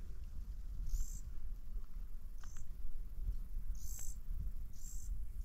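A small bird chirping: about five short, very high-pitched calls spaced a second or so apart, over a steady low rumble.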